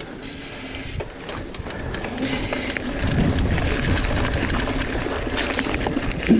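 Mountain bike rolling fast down a trail: tyre noise and wind on the microphone, with many sharp clicks and knocks from the bike rattling over the bumps. It grows louder from about two seconds in.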